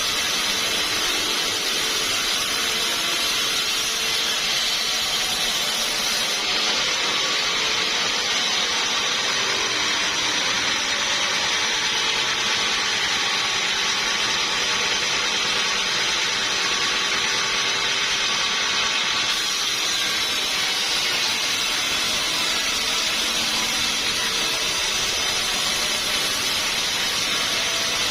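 Sawmill saw running steadily, a continuous high-pitched machine noise with no pauses or changes in level.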